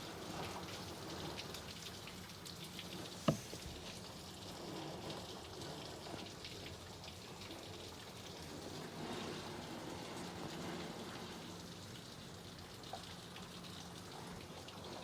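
Steady rain falling, with many small drop ticks through it. A single sharp knock stands out about three seconds in.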